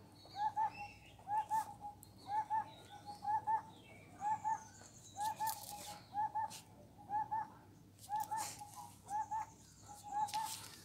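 A bird calling: a short double chirp repeated over and over, roughly every three quarters of a second.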